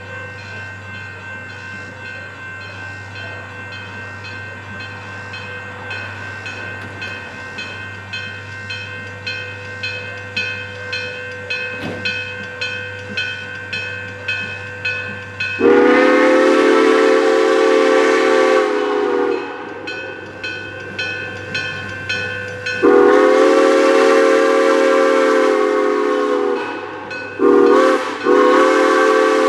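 GSMR #1702, a 2-8-0 steam locomotive, working toward the listener with its exhaust beating about twice a second and growing louder, then sounding its chime whistle in the grade-crossing pattern: two long blasts, one short, and a final long one.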